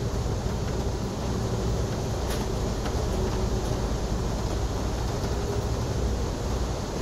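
Passenger train running at speed, heard from inside the car: a steady low rumble of wheels on the rails with a faint steady hum. A few light clicks come about two and a half to three and a half seconds in.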